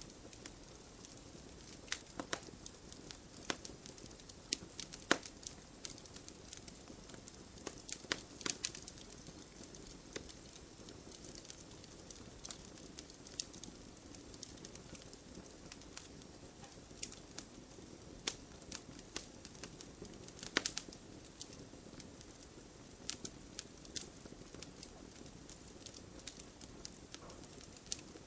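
Wood fire crackling, with irregular sharp pops and snaps, over a steady hiss of rain patter.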